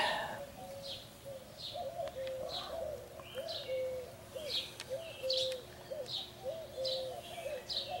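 Background birdsong: a dove cooing over and over in short low notes, with a small bird's higher chirps about once a second over it.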